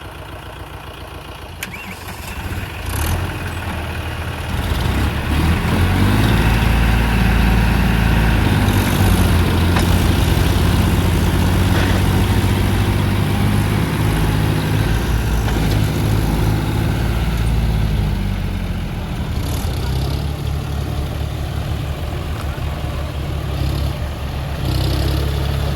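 Tractor engine running and revving up under load; it swells about four seconds in, holds at high revs, and eases off a little after about twenty seconds.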